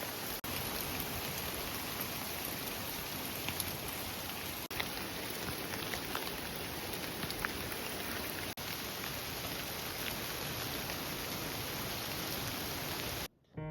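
Steady rain falling, with single drops ticking now and then. It cuts out briefly a few times and stops just before the end.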